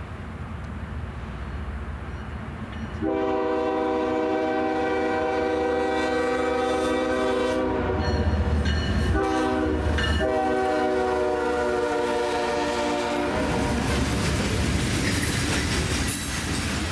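Norfolk Southern diesel freight locomotive approaching with a low engine rumble, then blowing its multi-chime air horn for about ten seconds with a brief break, the horn's pitch dropping as the locomotive passes. After the horn stops, the freight cars roll by with steady wheel and rail noise and a clickety-clack over the rail joints.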